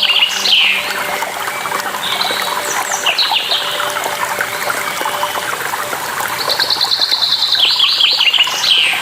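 A songbird sings a high trilled phrase that drops in pitch at its end, three times, over the steady rush of a waterfall.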